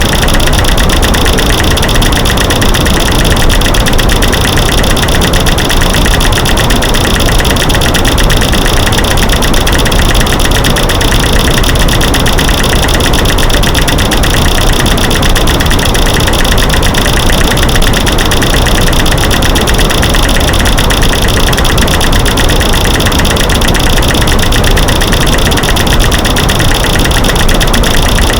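Loud, dense, unbroken clicking texture made from clicking light switches, snapping sticks and rocks knocking together, mixed over a white-noise bed; it holds steady with no pauses.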